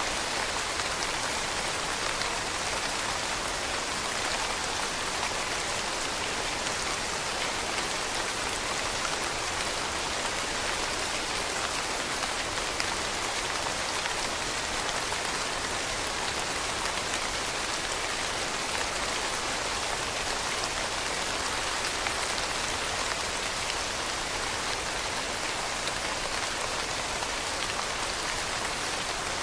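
Steady rain falling on leaves, a dense even patter of drops.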